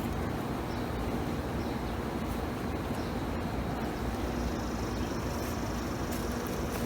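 Honeybees buzzing steadily around an open-air hive, a low hum over a general rushing background.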